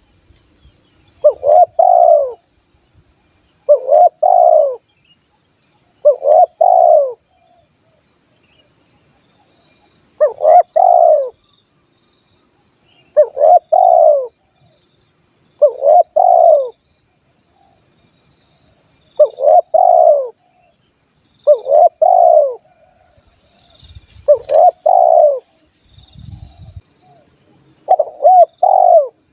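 Spotted dove (tekukur) cooing in a lure-call recording: short phrases of two or three coo notes, repeated about every two to three seconds. A faint steady high-pitched insect trill runs behind it.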